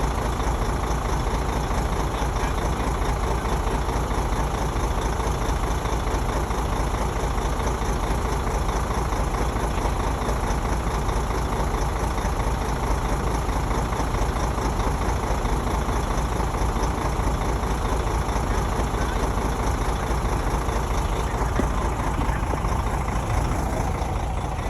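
Bulldozer's heavy diesel engine running steadily under load.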